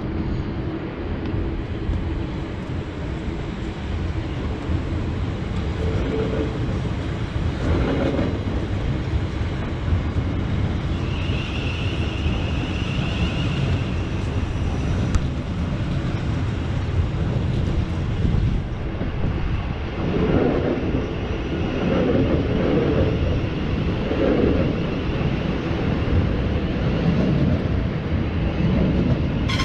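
Thameslink Class 700 electric train running slowly past along the cutting: a steady rumble of wheels on rail, with a high whine coming in about eleven seconds in and again faintly near the end.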